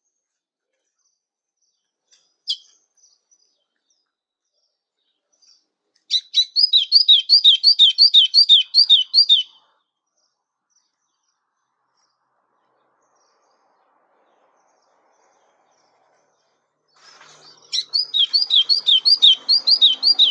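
A songbird, the golinha azulão of the title, singing two loud phrases of quickly repeated high notes, about three a second, each phrase lasting about three seconds with a long pause between. A single sharp click comes shortly before the first phrase.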